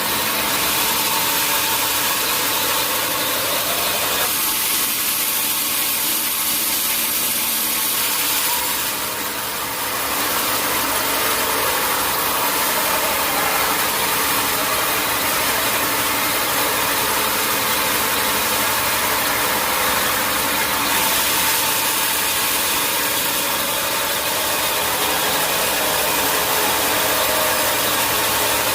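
Sawmill machinery running steadily, a loud even engine-driven din. Its tone shifts about four seconds in, and it eases briefly around nine seconds.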